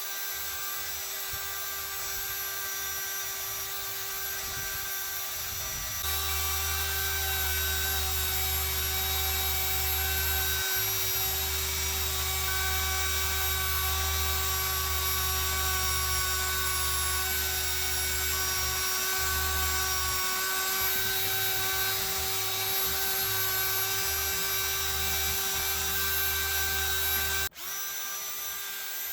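Electric power tool running steadily, a constant motor whine with a deeper hum joining about six seconds in. It breaks off for an instant near the end and carries on.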